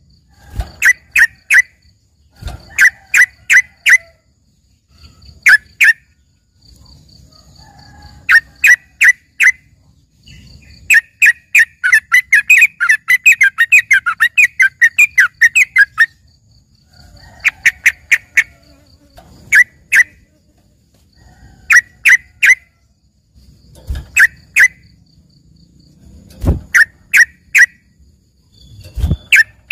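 Trucukan (yellow-vented bulbul) singing a tutored song in the style of a green leafbird (cucak ijo): repeated quick groups of three to five short, sharp notes, with a long rapid chattering run about a third of the way in. A few low thumps sound near the end.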